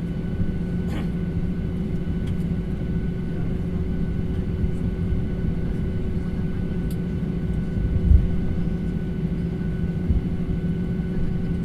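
Airliner cabin noise on the ground after landing: a steady rumble and hum from the jet engines and cabin air system, with a low thump about eight seconds in.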